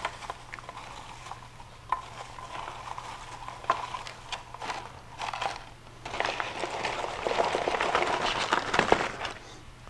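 Crisp freeze-dried shredded chicken crackling as it is pulled apart by hand and put into a Mylar bag. Scattered light crackles at first, then a denser stretch of crackling and crinkling from about six seconds in.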